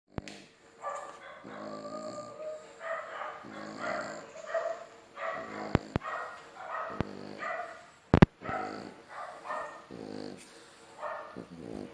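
Dogs barking again and again, short pitched barks about once a second, with a sharp knock a little past two-thirds of the way through.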